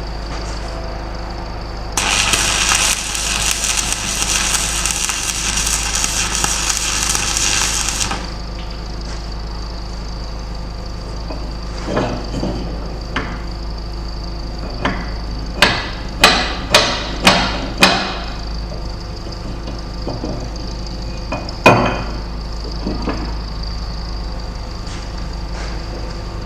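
About six seconds of welding-arc crackle as a bracket is tack-welded to the plow, cutting off sharply. Later a quick run of five hammer blows on metal about half a second apart, then one more blow a few seconds after, over a steady background hum.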